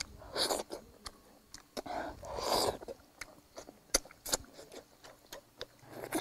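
Quiet eating sounds: chewing, with scattered small clicks and taps, and two short louder noisy bursts about half a second and two and a half seconds in.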